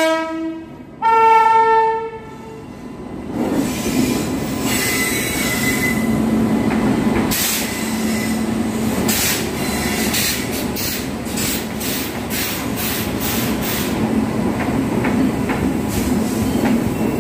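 Indian Railways WAP-7 electric locomotive blowing its horn twice, a lower note and then a higher, longer one. Then the train rumbles past alongside a station platform, its wheels clicking over the rail joints again and again for several seconds in the middle.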